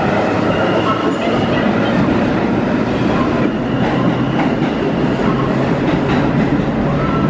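A 1903 BU elevated car running along the track, heard from on board: a steady, even running noise of wheels on rail and the car's motors.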